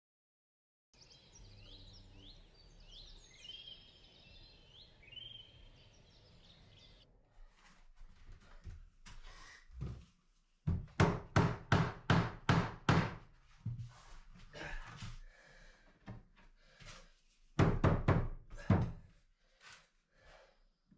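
Mallet blows on pine floorboards being knocked tight: two runs of heavy thuds, about four a second, with scattered softer knocks between them.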